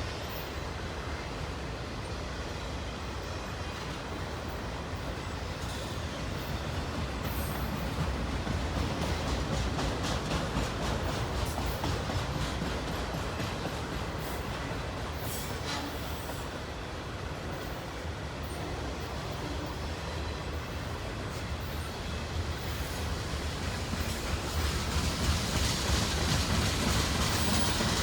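Freight cars of a long mixed manifest train rolling past, a steady rumble with wheels clicking over the rail joints. It grows louder over the last few seconds.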